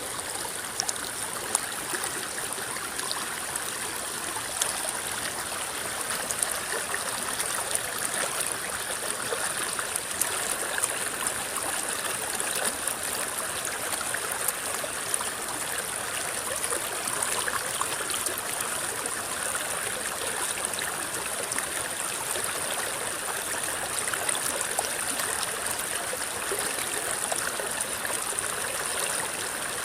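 River water rippling and gurgling steadily, with many small splashes and a steady high hiss over it.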